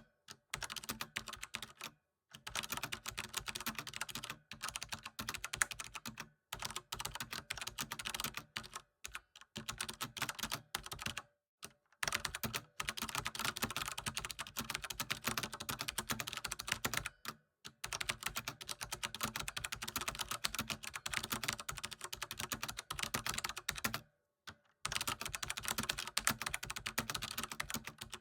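Fast typing on a computer keyboard: dense runs of key clicks lasting a few seconds each, broken by brief pauses.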